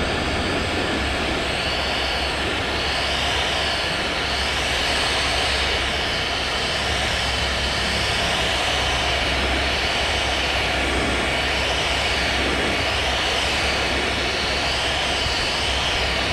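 Electric heat gun running steadily, blowing hot air over black plastic car trim, with a slow, regular wavering in its hiss.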